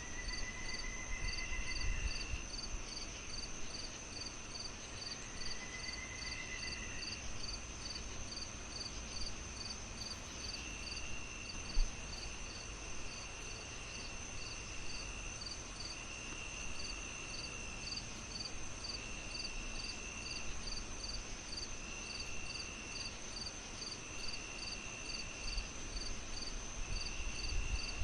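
Crickets chirping steadily, about one and a half chirps a second, with a constant high insect trill and other insects trilling in longer phrases on and off. Underneath is the soft crackle of a fireplace, with one sharp pop about twelve seconds in.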